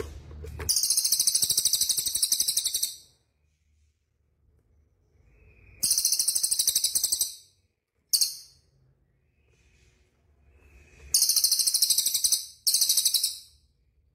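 A small songbird giving loud, very high, rapid trilling chatter in five bursts, the longest about two seconds, separated by short pauses.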